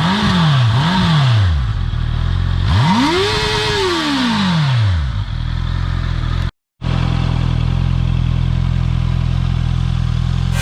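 2021 Honda CB650R's inline-four on its stock exhaust, blipped twice quickly, then revved once higher and longer before settling back to a steady idle. The sound drops out for a moment about two-thirds through, then the idle carries on.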